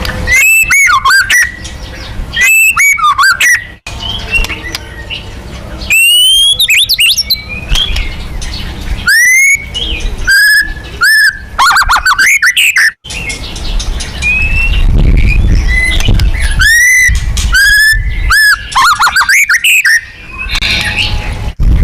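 White-rumped shama singing loud bursts of rapid, sweeping whistled phrases mixed with harsher notes, each burst a second or two long, repeated every few seconds with quieter calls between.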